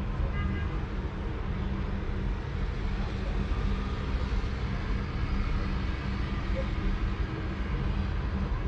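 Sleeping cat purring, a steady low rumble without pause.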